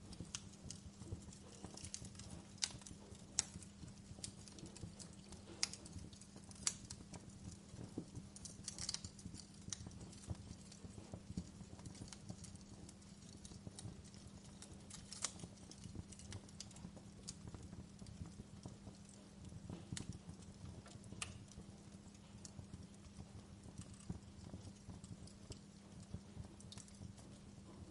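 Wood campfire crackling, with irregular sharp pops and snaps over a steady low hum.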